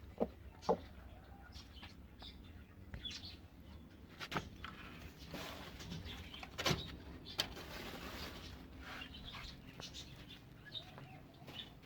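Birds in a backyard coop chirping faintly, with a few sharp clicks and knocks and a stretch of rustling, like wings flapping, about halfway through.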